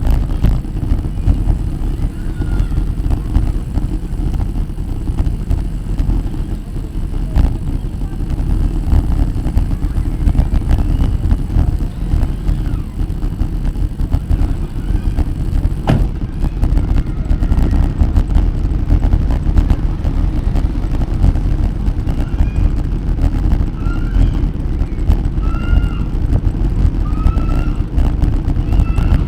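Wind buffeting the microphone while cycling, a loud, constant low rumble. Short high chirps come through several times near the end.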